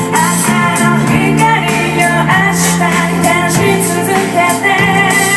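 A live band playing a song, with a singer's voice over the drums and instruments.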